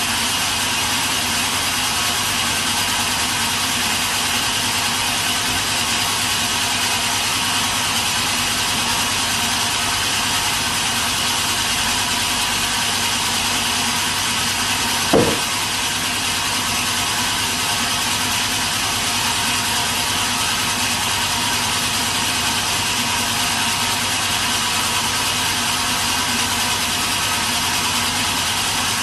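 Sawmill machinery running steadily, a constant mechanical drone with a steady whine, and a single brief thump about halfway through.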